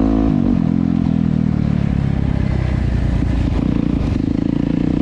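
Dirt bike engine running close by; its revs drop about half a second in, it runs rough and uneven for a few seconds, then holds a steady pitch near the end.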